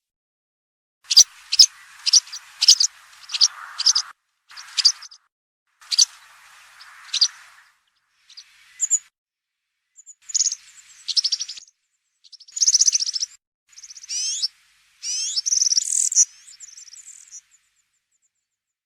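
European serin singing in field style: a run of short, high-pitched jingling and buzzy trilled phrases with brief pauses between them, stopping a second or so before the end.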